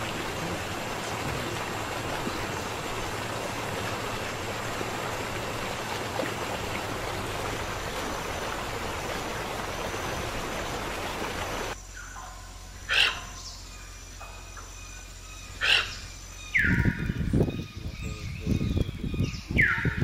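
Steady rushing noise that cuts off abruptly after about twelve seconds. Then, over a quieter background, birds call: two short sharp calls, then coarse, raspy low calls with notes sliding downward near the end.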